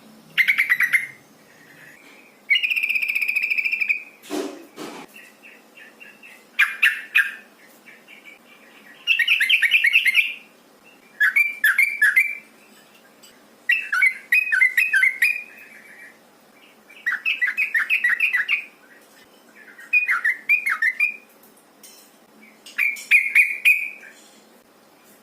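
Yellow-vented bulbul calling: short bubbly chirping phrases repeated every two to three seconds, the female's call used to lure males into song. A longer steady note comes about two and a half seconds in, and a brief low thud about four and a half seconds in.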